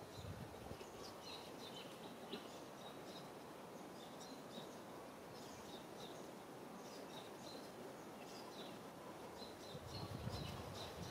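Faint outdoor ambience with small birds chirping: short, high, repeated calls scattered throughout. A low rumble rises near the end.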